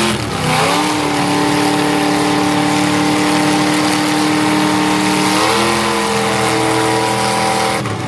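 Car engine held at steady high revs during a burnout, with the spinning tyres adding a hiss. The revs step up about half a second in, shift briefly around five and a half seconds, and the engine is let off just before the end.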